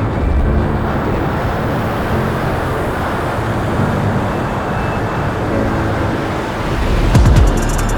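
Strong wind buffeting the microphone as a steady loud rush. About a second before the end, a quick even run of clicks starts.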